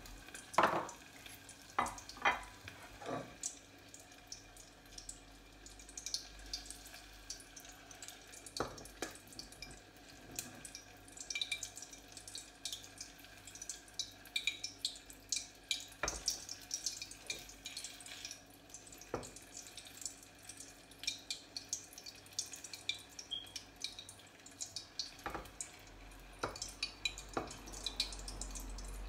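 Cherry tomatoes frying in hot oil in a tall stainless steel saucepan: a steady sizzle with irregular crackles and pops. A few louder knocks come in the first three seconds.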